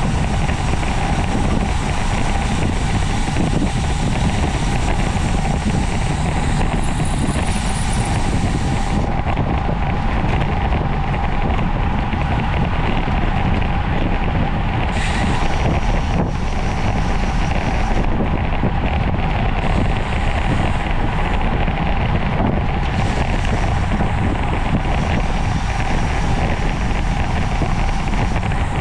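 Steady wind rush over the microphone of a camera riding along on a racing bicycle at speed, with a faint steady hum.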